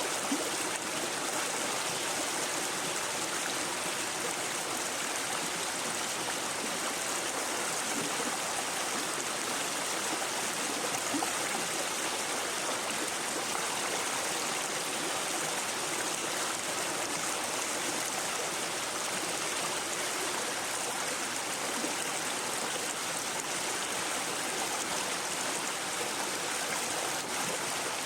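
Shallow brook babbling steadily over stones, an even rush of running water with fine splashing and trickling detail.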